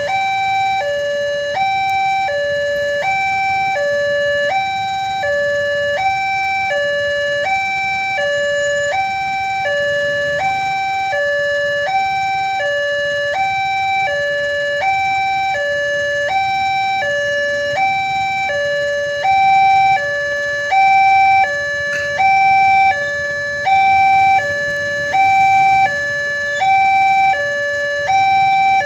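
Electronic warning alarm of an Indonesian railway level crossing sounding: two tones, high and low, alternating steadily a little under once a second each, with the higher tone coming through louder in the last third.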